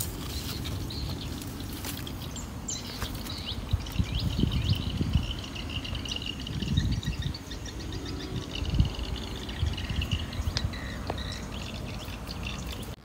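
Birds chirping over and over, with low, irregular bumps and rustling close to the microphone.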